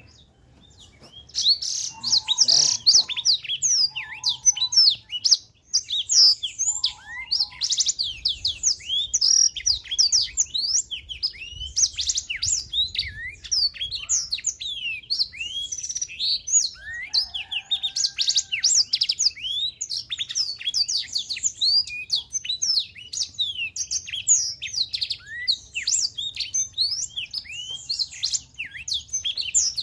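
Blackthroat (black-throated canary) singing in full song: a fast, unbroken stream of high, varied twittering chirps and trills. It starts about a second and a half in, with a short break near five and a half seconds.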